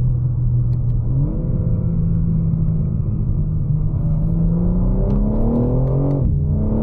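2024 BMW M4 Competition's twin-turbo inline-six heard from inside the cabin under hard acceleration. The engine note climbs steadily, drops sharply at an upshift about six seconds in, then pulls on. Part of the sound is piped into the cabin through the speakers.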